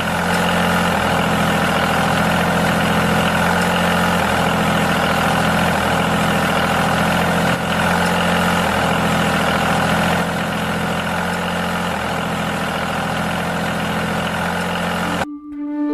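Steady engine-like drone of a home-made mini tractor running, even in pitch with a slight swell about every second and a half. It cuts off suddenly near the end.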